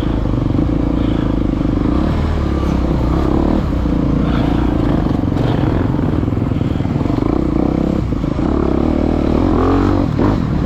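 Dirt bike engine running hard as it is ridden through a woods race course, its revs rising and falling with the throttle, with a clear dip and climb in revs near the end.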